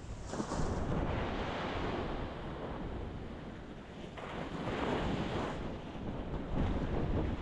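Ocean waves breaking on a rocky shore, swelling in three times: just after the start, about four seconds in, and near the end.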